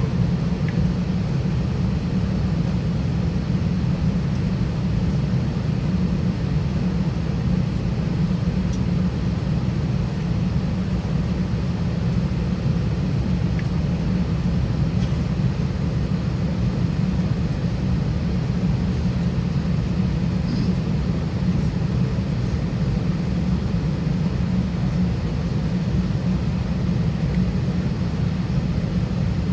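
Steady low rumble inside an Airbus A320 cabin, with no rising engine whine or sudden events.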